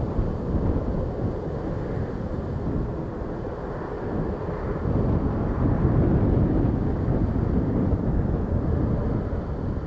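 Jet airliner engines running in a steady low rumble that grows louder about halfway through, mixed with wind buffeting the microphone.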